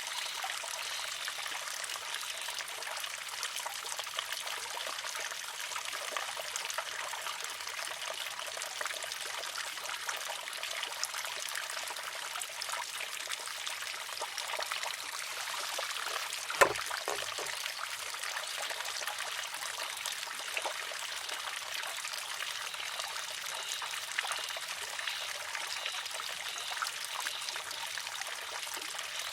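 Water trickling steadily into a wooden shishi-odoshi, and once, a little past halfway, the sharp clack of its pivoting wooden arm striking stone as it tips and empties.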